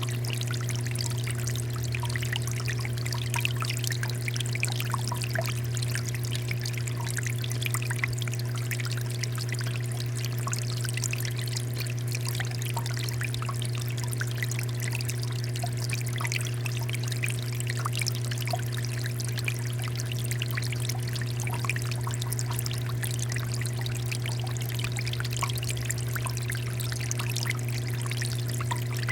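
Water fountain running steadily, water pouring and splashing in a constant patter of fine droplets. Under the splashing there is a steady low hum.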